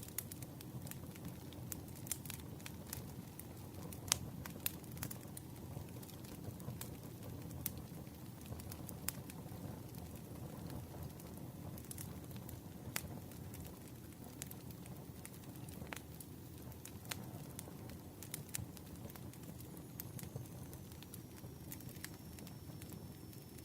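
Campfire burning with a steady low rumble and frequent irregular sharp crackles and pops from the burning wood.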